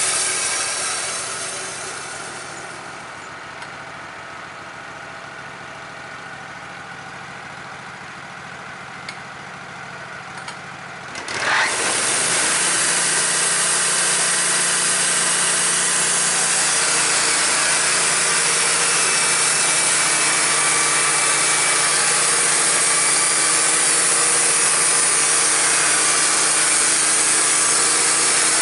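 Portable band sawmill: its engine drops back to idle over the first few seconds, idles, then revs up with a rising whine about eleven seconds in and runs steadily at full speed while the blade saws through the timber.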